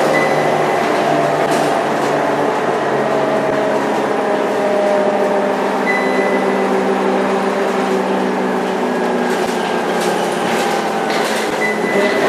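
Scania K230UB bus's diesel engine running at a steady pitch, with a brief high whine a few times.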